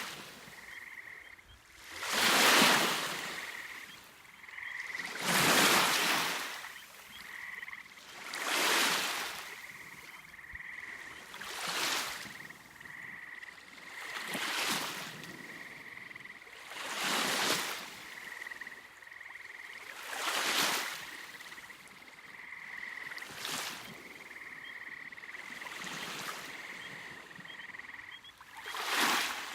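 Small waves washing onto a Lake Michigan beach about every three seconds, the first few strongest. Under them runs a steady high-pitched trill that pulses in short beats.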